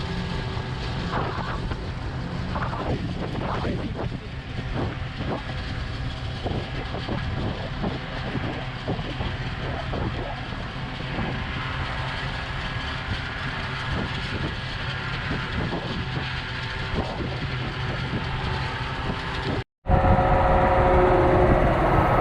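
Tractor engine running steadily. Near the end it cuts off abruptly and a louder engine picks up.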